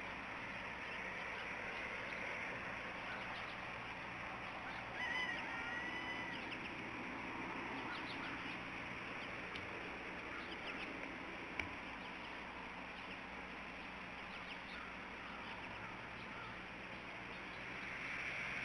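A bird gives one drawn-out call about five seconds in, over a steady background hiss, with faint short chirps and a single sharp click near the middle.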